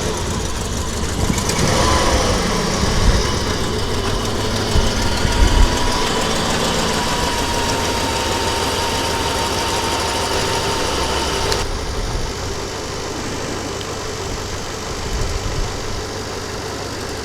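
A 2000 Dodge Ram 1500 Magnum engine idling steadily just after a hard cold start, its first run after a year of sitting. The sound turns duller about twelve seconds in.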